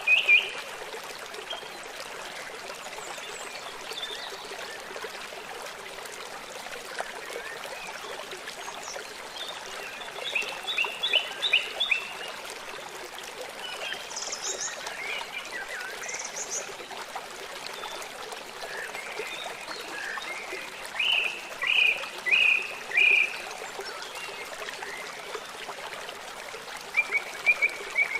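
Songbirds chirping in short bursts of quick repeated notes, a few of them high and thin, over the steady rush of running water.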